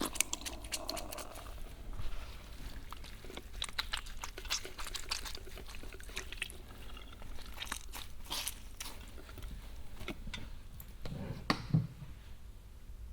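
Wet hair and scalp being worked by hand during a shampoo, giving irregular soft crackles and squishy clicks, with a louder low thump near the end.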